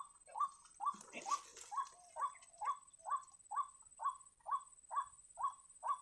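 White-breasted waterhen call: short rising notes repeated monotonously at about two a second.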